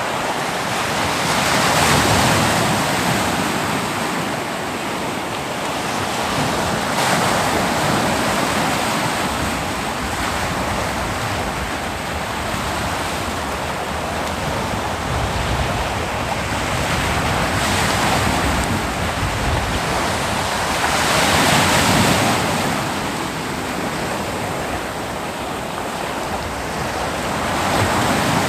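Ocean waves breaking on a beach, a continuous wash of surf that swells and eases as each wave comes in, every few seconds. Some wind on the microphone.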